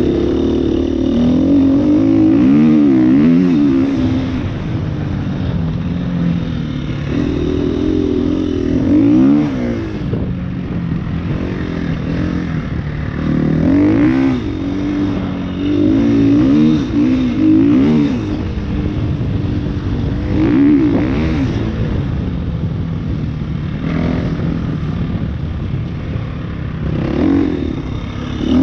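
KTM EXC-F 350's single-cylinder four-stroke engine under riding load, its pitch rising and falling again and again as the throttle is opened and shut through the turns of a sandy track, with the loudest surges near the start, around a third of the way in, and through the middle.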